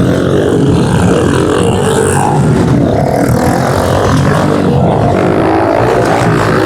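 Several pit bike engines running hard in a race, their pitches rising and falling as the riders work the throttle.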